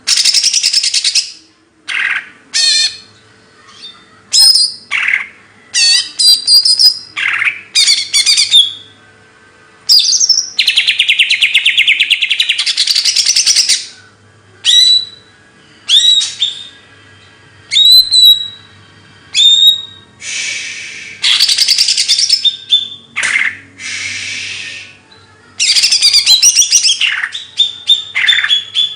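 Bird song: loud phrases of fast, rattling trills and sharp chirps, one after another with short pauses between them.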